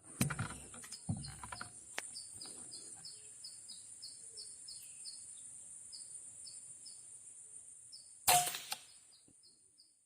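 Small birds chirping in short, quickly repeated notes over a steady, high insect buzz. There are a couple of dull thumps in the first second, and a loud, sharp crack comes about eight seconds in.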